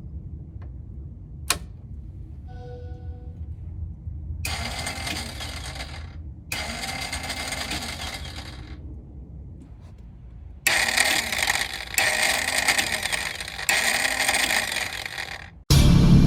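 APTrikes125 electric starter whirring in five short presses, spinning freely without turning the engine over, so the engine does not start. A click comes before the first press, and a much louder, lower sound cuts in suddenly near the end.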